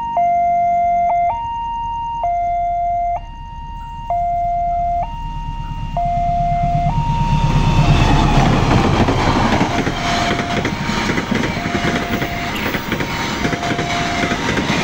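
Automatic level-crossing warning alarm sounding two alternating tones, high then low, switching about once a second. About five seconds in a train comes through the crossing, its noise rising to its loudest near eight seconds and running on, with the alarm still sounding under it.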